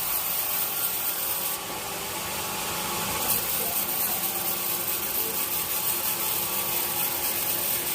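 Sawmill saw cutting through teak wood, a steady noise with a faint even hum underneath and a small shift in tone about a second and a half in.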